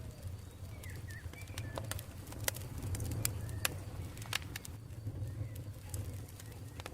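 Campfire crackling: irregular sharp pops and snaps over a steady low rumble of burning wood, with a few faint short chirps.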